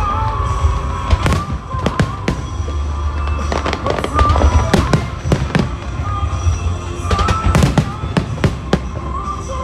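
Fireworks display: aerial shells bursting in a rapid, irregular series of sharp bangs, with music playing underneath.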